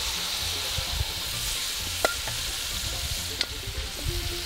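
Beef and chili paste sizzling steadily in an aluminum Dutch oven over hot coals as browned beef is spooned back into the pot, with a metal spoon clinking sharply against the pot twice.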